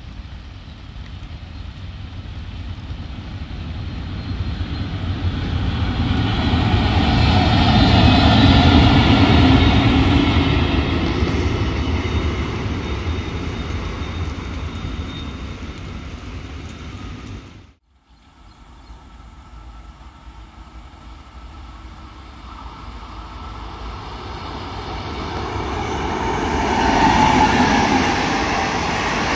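A train passing at trackside: the sound swells to a peak about nine seconds in and then fades. After a sudden cut, another train approaches, growing louder near the end.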